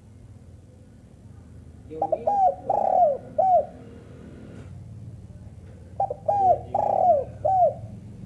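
Spotted dove (tekukur) cooing: two short phrases of four or five curved, falling coo notes, one about two seconds in and one about six seconds in. A steady low hum lies underneath.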